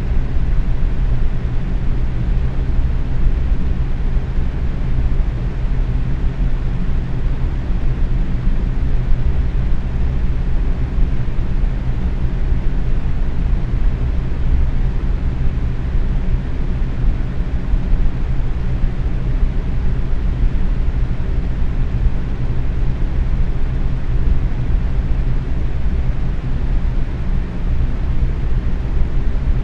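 Box fan running steadily at medium speed: an even rush of moving air, heaviest in the low end, with a faint steady hum underneath.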